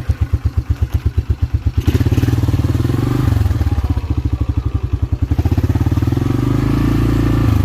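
1987 Yamaha Moto-4 350 ATV's single-cylinder four-stroke engine idling with slow, even exhaust pulses, then revving up about two seconds in and held at higher revs, with a short dip a little past the five-second mark, as the quad is driven in reverse.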